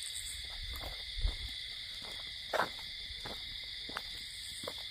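Night insect chorus, a steady high-pitched drone, with a few faint ticks and a soft low thump about a second in.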